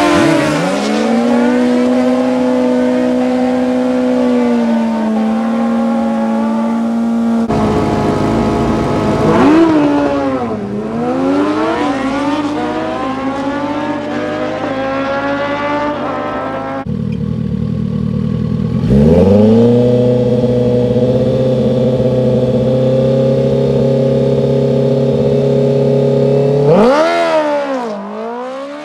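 Racing engines at a drag strip, held at high steady revs. Twice the pitch swoops down and back up, and the sound changes abruptly twice.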